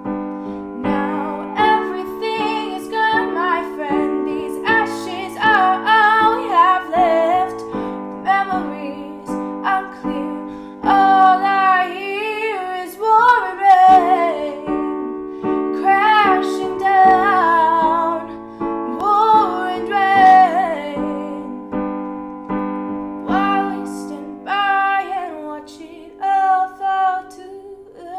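A woman singing a slow song over piano chords.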